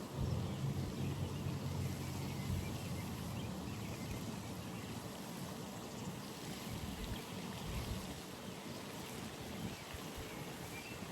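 Steady trickling, running water at a pond, with a low rumble during the first two or three seconds.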